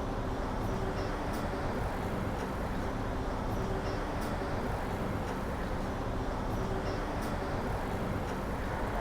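Steady rushing noise of a touring bicycle being ridden: wind over the microphone and tyres on the pavement, with a faint steady hum and a few light ticks.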